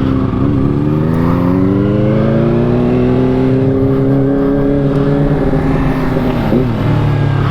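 Yamaha R3 parallel-twin motorcycle engine accelerating, its pitch climbing over the first few seconds and then holding steady, before easing off with a short blip of revs near the end.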